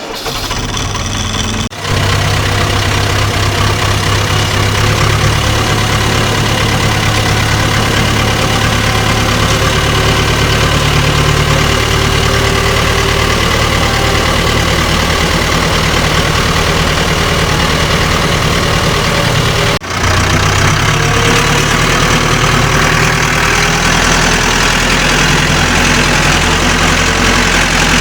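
Massey Ferguson tractor's diesel engine running steadily, dropping out briefly twice.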